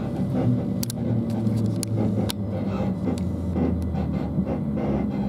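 Cabin sound of a Class 377 Electrostar electric train moving slowly past the platforms: a low running hum whose steady tone steps down in pitch about two seconds in, with a few sharp clicks scattered through it.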